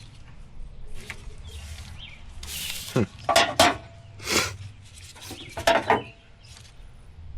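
Metal tools and parts clinking and scraping while a bolt is worked into a truck's steering gear: a scrape, then a handful of sharp metallic clinks with a short ring. The bolt is binding in its threads.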